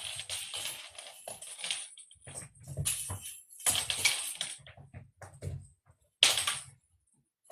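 A cat toy jingling and rattling in irregular bursts as it is batted about, with soft thumps; the loudest shake comes a little after six seconds, then it goes still briefly.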